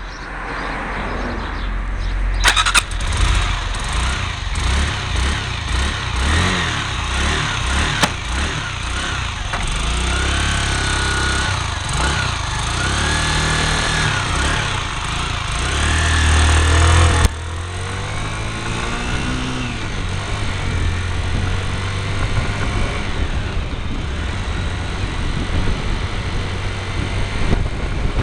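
Motorcycle engine running, picked up by a mini camera cable-tied to the bike, its pitch rising and falling several times. The level drops suddenly about seventeen seconds in, after which the engine runs more steadily.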